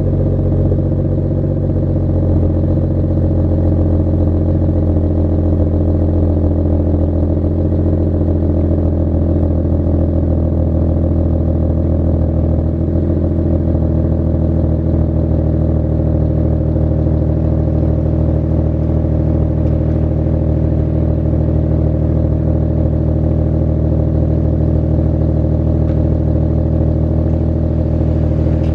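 BMW F30 335i's turbocharged inline-six, exhaust muffler deleted with the catalytic converter still fitted, running steadily with a low, even exhaust drone. Its pitch shifts slightly in the first dozen seconds and then holds.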